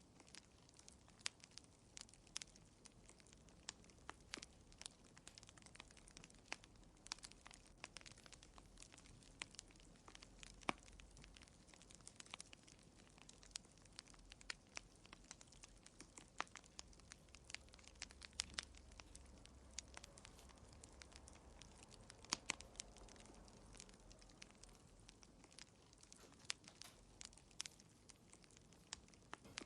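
Wood fire crackling faintly in a fireplace, with irregular sharp pops and snaps over a soft, low hiss.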